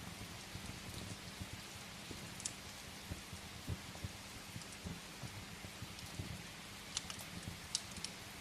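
Steady rain hiss and patter against a window, mixed with a wood fire crackling in a fireplace: a few sharp pops, the loudest two near the end.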